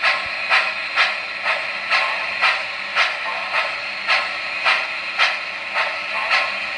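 Steam chuffing from the Proto-Sound 2 sound system of an MTH O-gauge New York Central H-9 2-8-0 locomotive, a steady rhythm of about two chuffs a second over a constant hiss.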